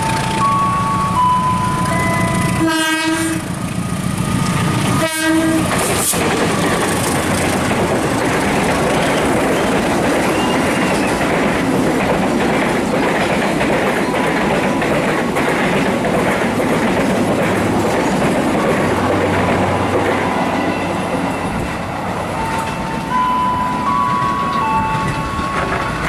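Train passing: a locomotive's horn sounds two short blasts, then the train goes by with a loud rumble and wheels clicking over the rail joints. A stepped electronic warning tone sounds at the start and again near the end.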